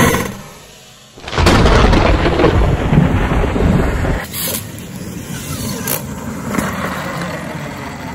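A large 12S electric RC monster truck slams down onto concrete from a big jump, a landing hard enough to snap off a shock standoff. About a second later comes some three seconds of loud, low rumbling noise, then a softer steady rumble with a few light knocks as the truck rolls on.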